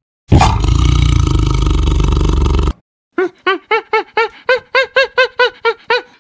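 A tiger roaring, one long call that cuts off suddenly. About half a second later comes a quick run of short, high animal calls, each rising and falling in pitch, about four a second.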